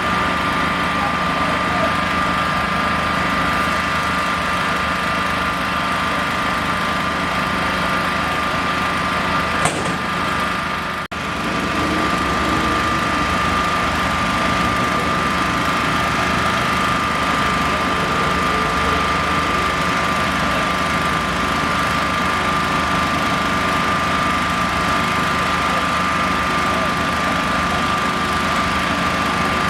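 A machine or engine running steadily with an even low hum and a constant high whine, dipping briefly about 11 seconds in.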